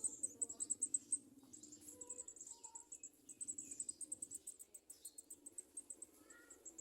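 Very high-pitched, rapid cheeping from small birds, several thin peeps a second with a few short lower chirps in between, typical of sunbird nestlings begging for food.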